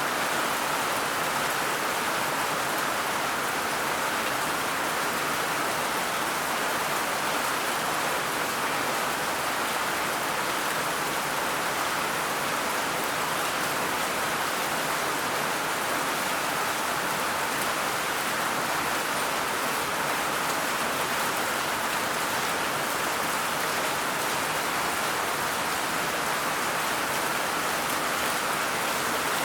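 Steady rain falling on a surface, a continuous even patter.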